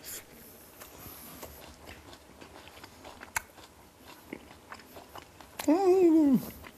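A man chewing a mouthful of chunbing, a thin flatbread wrapped around fried dried chillies, onion and stir-fried meat, with faint crunchy clicks. Near the end comes a loud hummed 'mmm' of about a second that rises and then falls.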